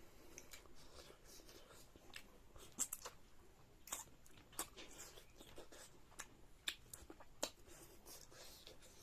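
A person chewing food close to the microphone, with scattered short sharp mouth and bite clicks over a faint background.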